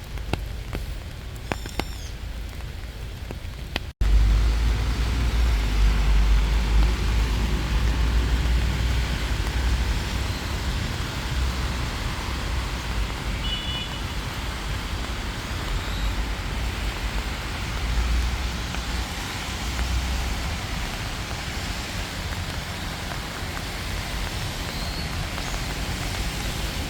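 Steady rain falling, an even hiss. After a sudden break about four seconds in, a deep low rumble runs underneath the rain.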